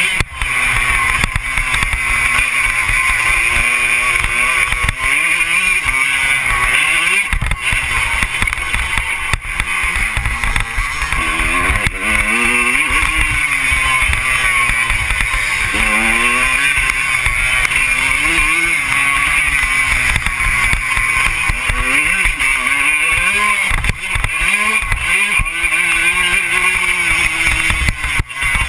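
Motocross bike engine revving up and falling back again and again, over a steady roar of wind on the microphone.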